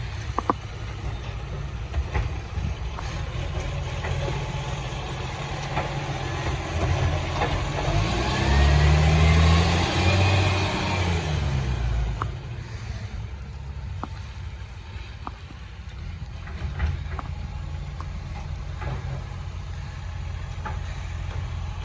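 Garbage truck's diesel engine running steadily, its revs rising about eight seconds in and dropping back about four seconds later, with scattered short knocks.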